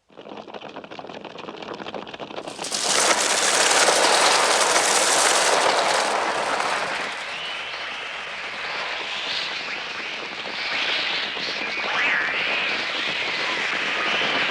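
Film sound of a swarm of birds: a dense whirring flutter of many wings with a mass of shrill twittering. It builds over the first seconds, swells suddenly to its loudest about two and a half seconds in, and settles into wavering, high cries.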